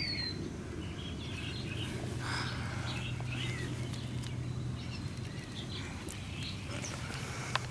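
A baby bird's faint, high chirps, one short falling chirp at the start and scattered quieter ones after, over a steady low hum; a couple of sharp clicks near the end.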